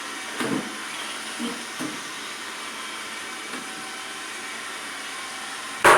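Robot vacuum running: a steady whirring hiss from its suction motor and brushes, with a few soft bumps and one loud sharp knock just before the end.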